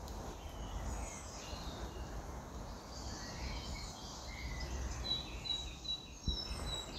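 Small woodland birds calling: scattered short high chirps, then a run of evenly spaced high notes, about three a second, over the last two seconds. Under them is a faint low rumble, with one soft thump near the end.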